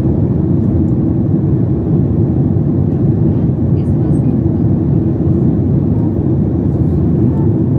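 Steady low rumble of cabin noise inside a Boeing 737 MAX 8 with its CFM LEAP-1B engines running, holding an even level throughout.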